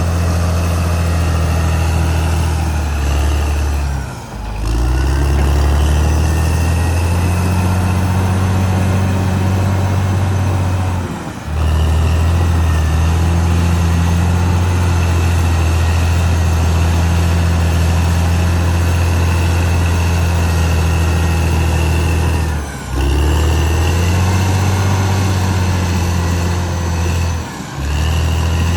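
Caterpillar D6R XL bulldozer's diesel engine running steadily. The sound briefly drops out four times, about 4, 11, 23 and 28 seconds in.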